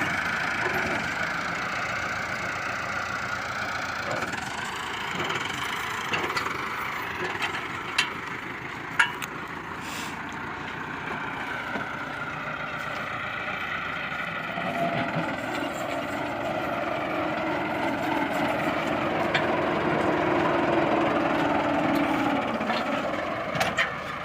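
Heavy farm machinery engine running steadily, its note changing about two-thirds of the way through, with a few sharp clicks near the middle.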